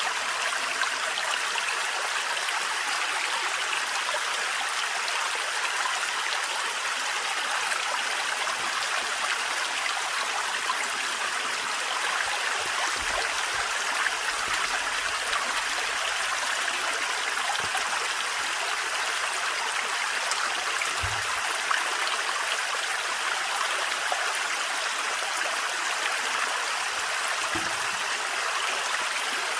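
Thin forest waterfall running steadily, an even rush of falling water, with a few faint low thuds.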